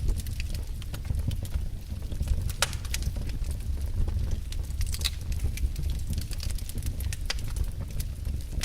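Wood fire burning in a fireplace, with a steady low rumble of the flames and irregular sharp crackles and pops from the burning wood.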